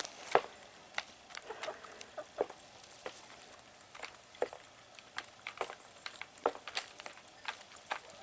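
Small, irregular pattering crunches, a few a second, of chickens' feet stepping over icy snow along a shoveled path.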